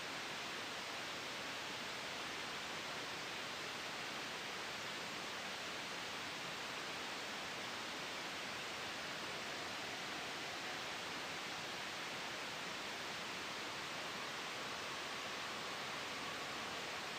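Steady, soft white-noise hiss, even and unchanging throughout, generated for sleep and noise masking.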